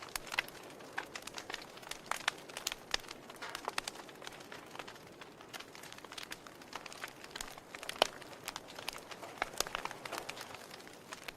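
Wood fire in a fireplace crackling: irregular sharp pops and snaps from the burning logs over a soft steady hiss, with the loudest pop about eight seconds in.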